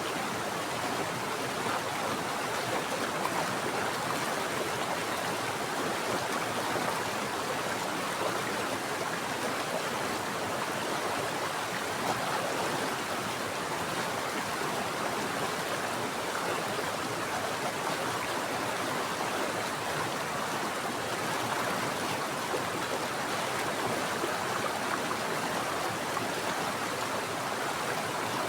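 Mountain stream water flowing and splashing over rocks, a steady rushing sound that holds even throughout.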